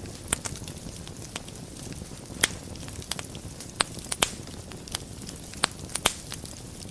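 Wood fire burning in a fireplace, with a steady low hiss and sharp, irregular pops and crackles, a handful of them standing out loud above the rest.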